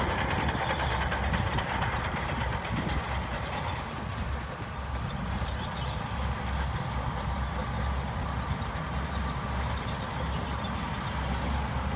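Diesel engine of heavy earthmoving machinery running steadily at low revs, with a low, pulsing throb.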